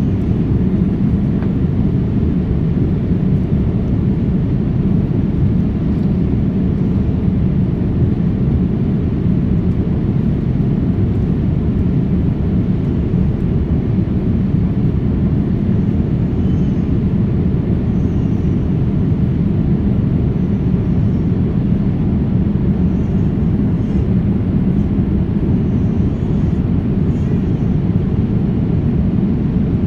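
Steady low rumble of a jet airliner heard from inside the passenger cabin: engine and airflow noise, even and unbroken throughout.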